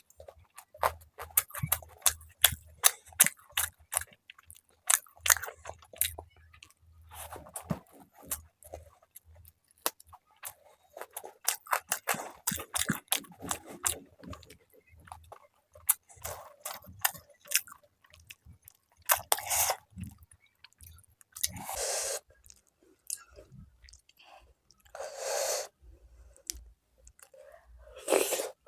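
Close-miked chewing of rice with fish curry and fried fish: a dense run of wet mouth clicks and smacks. There are a few longer, louder noisy sounds in the second half.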